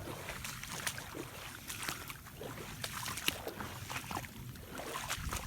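Rubber boots wading through a shallow rainwater pond: irregular splashes and sloshes with each step, over a low steady rumble.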